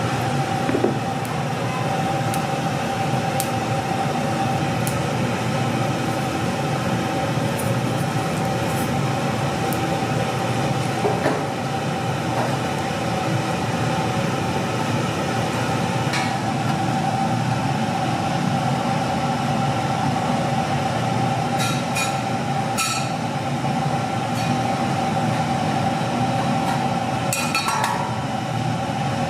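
Steady roar of a commercial kitchen's burners and ventilation, with a steady hum, and a few short metal clinks scattered through, heavier near the end.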